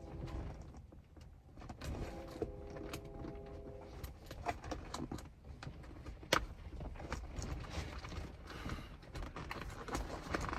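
Scattered light clicks, taps and rustles of hands working a stretchy fabric seat cover onto a car seat, with a faint steady tone for a couple of seconds early on.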